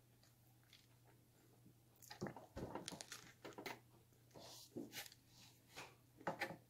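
A person chewing food close to the microphone: a run of irregular short chewing and mouth sounds starting about two seconds in.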